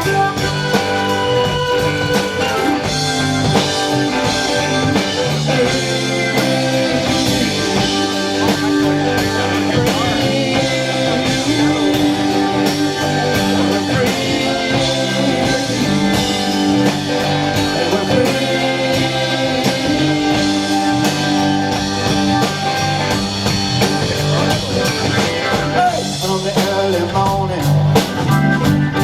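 A live band playing a rock song, with guitar prominent, during an instrumental stretch between sung verses.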